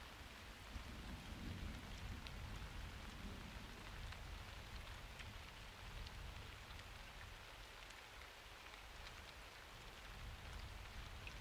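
Steady summer rain falling, with individual drops ticking close by and a low rumble underneath.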